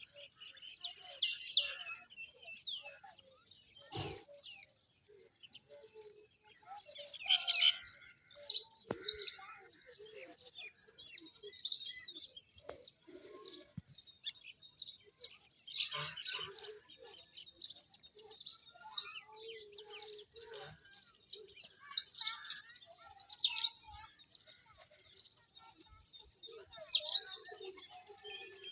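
Small birds chirping steadily, with louder sharp high calls every few seconds.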